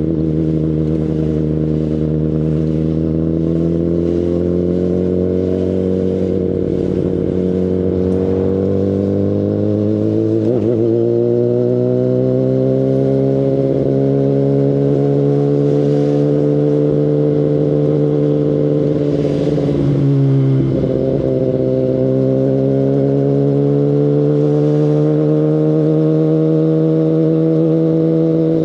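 2019 Kawasaki Ninja ZX-10RR's inline-four engine through an Akrapovic Evolution Line carbon full exhaust, running steadily under way, its pitch climbing slowly, with brief breaks about ten and twenty seconds in where the note dips and then rises again.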